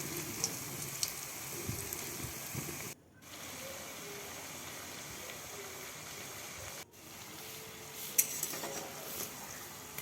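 Egg pakoras sizzling steadily in hot oil in a kadai, the sound cutting out briefly twice.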